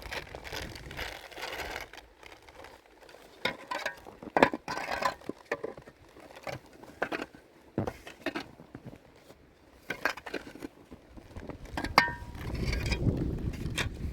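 Irregular clinks, knocks and crunches of hand work with hard material, with one sharp click about twelve seconds in followed by a rumbling noise near the end.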